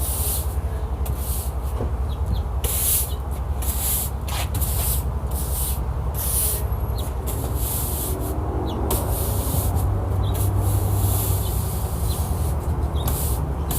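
Broom sweeping sand across a porch floor: repeated scratchy strokes at an uneven pace over a steady low rumble.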